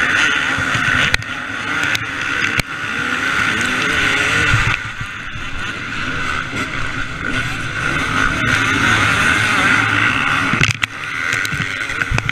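A two-stroke KTM 250 SX motocross bike running hard on track, its engine pitch rising and falling as the throttle opens and closes. Steady rushing noise and several sharp knocks run through it.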